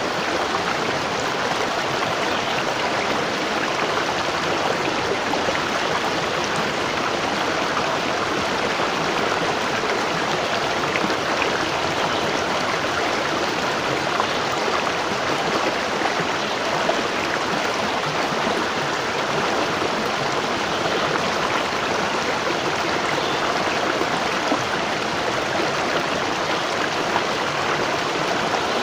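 Waterfall: water falling and splashing onto rocks and a pool, a steady, even rush with no change.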